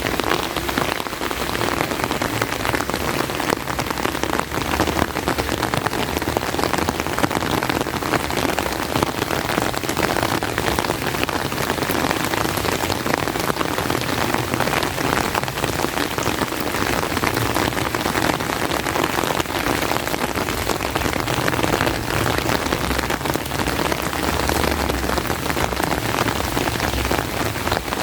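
Steady heavy rain, with a dense, even spread of close drops striking an umbrella.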